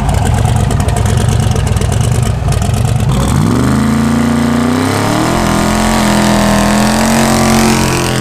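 Twin-turbo LS V8 in a Camaro drag car idling loudly, then about three seconds in the revs climb and are held high and steady through a burnout, spinning the rear tyres.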